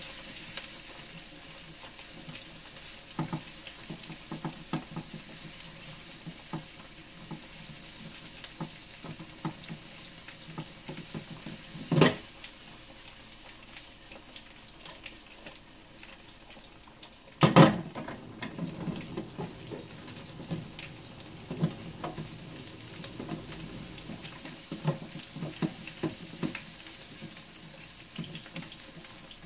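Dumplings pan-frying in oil, a steady sizzle with scattered light clicks and taps. Two sharp knocks stand out, about twelve and seventeen seconds in.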